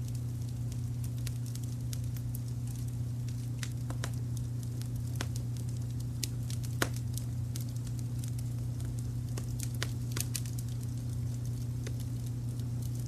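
Wood fire crackling with scattered sharp pops, one louder snap about seven seconds in, over a steady low rumble of brown noise.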